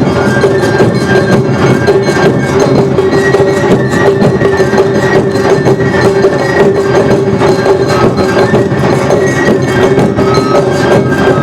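Awa odori festival ensemble playing its dance music. Drums and a kane hand gong keep a fast, steady beat, while a flute plays a melody of held notes above it.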